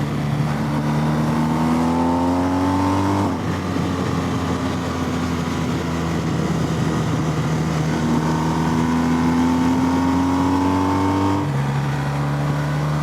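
Motorcycle engine pulling hard under acceleration, its pitch climbing, breaking at a gear change about three seconds in, then climbing again with another change near the end, over steady wind rush.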